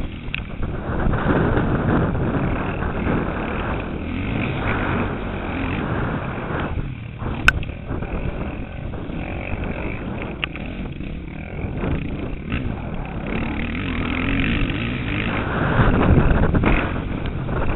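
KTM 450 SX motocross bike's engine running and revving under load through changing throttle, heard from a helmet-mounted camera. There is a sharp single knock about seven and a half seconds in, and the engine gets louder near the end.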